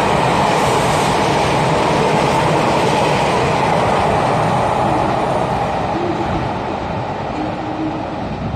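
Locomotive-hauled passenger train running through an underground station at speed: the coaches' wheels on the rails make a loud, steady rumble that fades from about five seconds in as the tail of the train pulls away.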